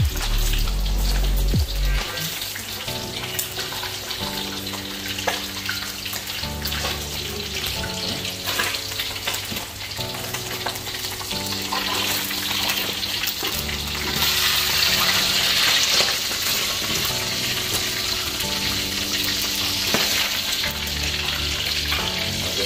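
Food frying and sizzling in woks on a gas stove, stirred with metal tongs and a spatula that clink against the pans; the sizzle swells for a couple of seconds past the middle. Soft background music runs underneath.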